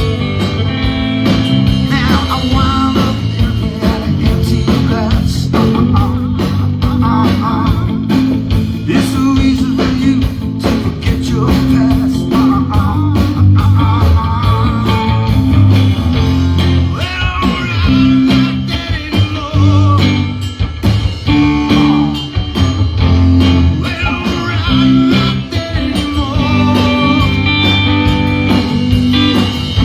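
Live blues-rock band playing: electric guitar over a steady bass line and drums.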